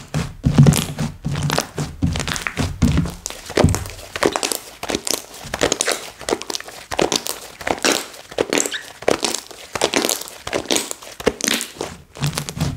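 Slime being squeezed and poked by hand: a fast, irregular run of sticky clicks and crackles, with low thuds in the first few seconds.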